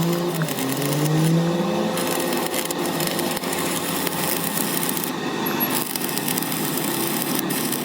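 A machine tool cutting metal on a gear. Its motor rises in pitch over the first couple of seconds, then gives way to a steady, rough cutting noise.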